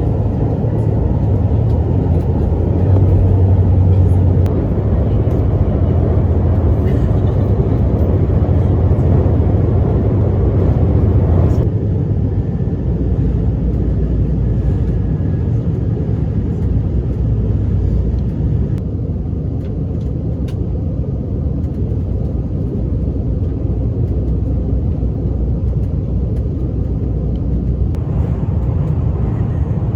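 Steady low rumble of a train running, heard from inside the carriage. It eases off a little about twelve seconds in and again a few seconds later.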